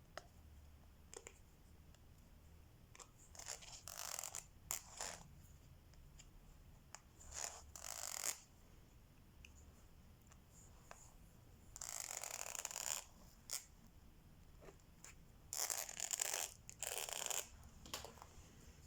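Hand work on a diamond painting: four short, scratchy rustling bursts with small clicks in between, such as plastic film, the drill tray and the pen being handled.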